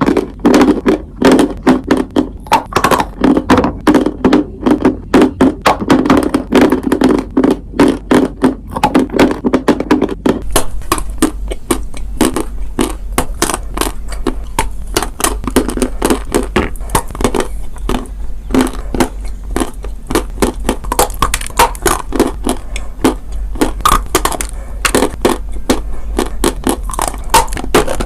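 Close-miked biting and chewing of dry chalk and clay: rapid, loud, dry crunching and crackling. For the first ten seconds or so it is fuller and heavier; after that it turns thinner and sharper.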